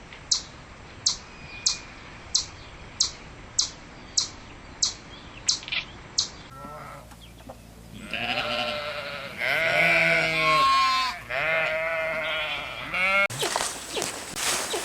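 A run of about ten short, high chirps, evenly spaced a little over half a second apart. About six and a half seconds in, this gives way to a series of loud, wavering bleats from livestock. Sharp clicks start near the end.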